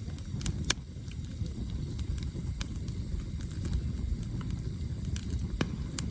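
Campfire burning, the firewood crackling and popping in scattered sharp snaps over a low, steady rush of flame.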